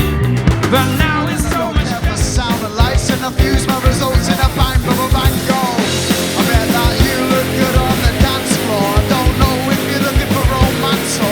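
Live rock band playing an up-tempo punk-rock song, with steady, hard-hitting drums under a wavering lead melody from voice or guitar.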